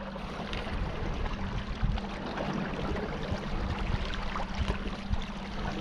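A small boat under way: its motor hums steadily while water splashes and gurgles along the hull.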